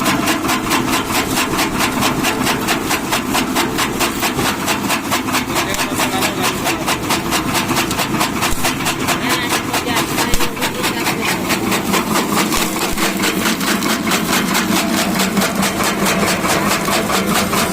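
Tractor engine running at a steady idle, its firing pulses coming evenly about five times a second, with a single knock about ten seconds in.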